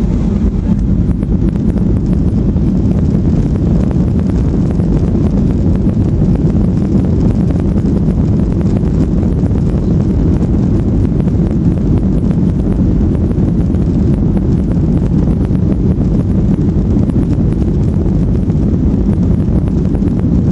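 Steady low rumble of a Boeing 737-800's CFM56 turbofan engines and airflow heard inside the cabin during take-off and climb.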